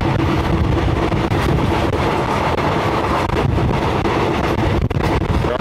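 Steady running noise of a moving passenger train heard from on board: wheels rumbling on the rails.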